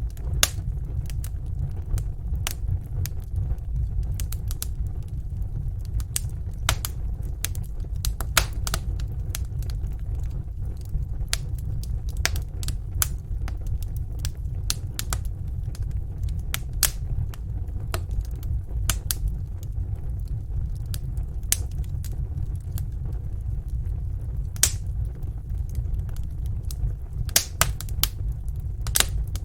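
Wood fire burning in a fireplace: a steady low rumble of flames with irregular sharp pops and crackles from the logs.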